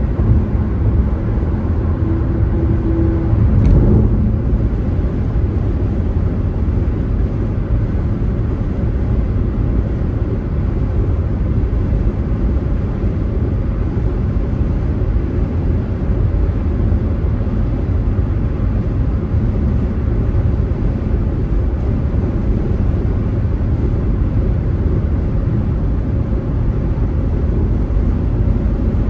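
Car driving, a steady low rumble of tyre and engine noise. A short steady tone comes about two seconds in, then a single sharp click.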